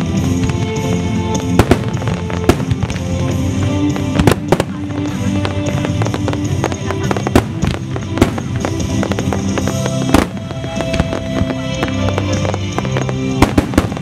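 Aerial fireworks shells bursting, with sharp bangs coming irregularly about once a second, over music with long held notes.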